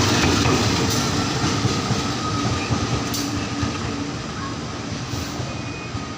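Train running past on the station tracks, its rumble and wheel noise fading steadily as it moves away.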